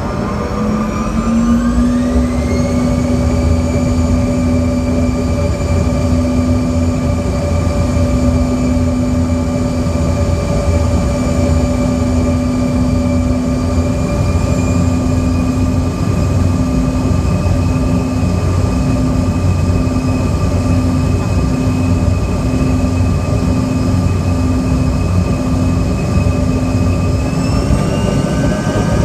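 Twin rear-mounted turbofan engines of a CRJ-200 airliner heard from inside the cabin during takeoff. Their whine climbs over the first two seconds as they spool up to takeoff thrust, then holds steady over a low rumble, and the pitch shifts again near the end.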